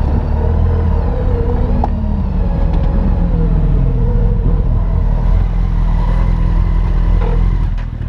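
Motorcycle engine running with a steady low rumble, its pitch falling over a few seconds as the revs drop.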